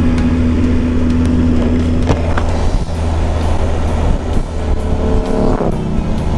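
Triumph Tiger 800's three-cylinder engine pulling under way, heard over heavy wind rush. Its note shifts about two seconds in, then rises near the end and breaks off briefly just before six seconds, as at a gear change.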